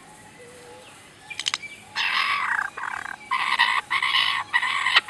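Bird calling: harsh, raspy calls repeated in half-second blocks from about two seconds in, after a quieter start with a few clicks.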